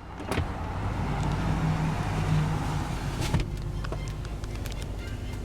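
Cadillac Northstar 4.6-litre V8 idling steadily after being revved, with a couple of sharp clicks, one right at the start and one about three seconds in.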